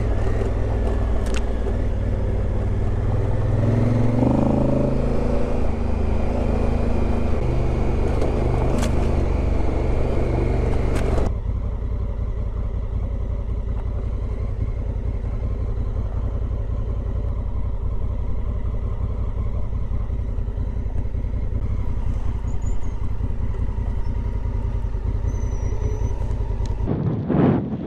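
Motorcycle engine running steadily at riding speed. About eleven seconds in the sound changes abruptly and becomes a little quieter.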